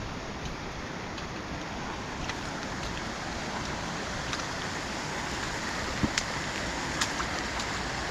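Steady rush of a rain-swollen burn and the water running into it, with a few sharp clicks scattered through it.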